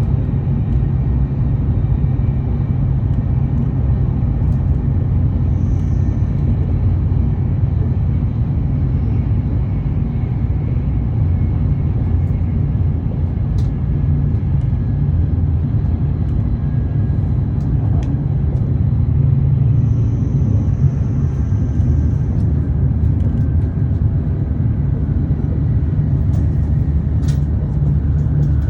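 Steady low rumble of a Shinkansen train running at speed, heard from inside the carriage, with a few faint ticks.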